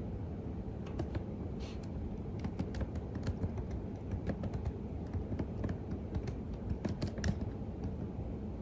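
Typing on a computer keyboard: irregular, quick key clicks, a few sharper ones mixed in, over a steady low background rumble.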